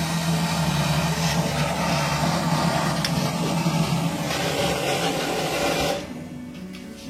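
A motor running steadily with a low hum and a hiss, cutting off about six seconds in.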